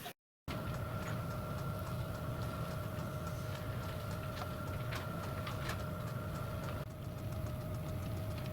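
A workshop machine's motor running steadily, a low hum with a steady high whine and a few light ticks.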